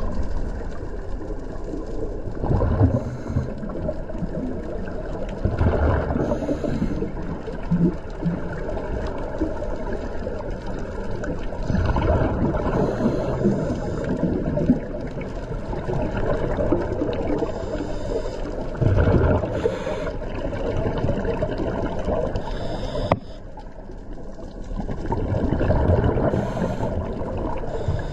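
Underwater noise on a diver's camera: a steady watery rush, with a louder bubbling surge every six or seven seconds. About 23 seconds in there is a sharp click and the sound drops suddenly, then builds back up.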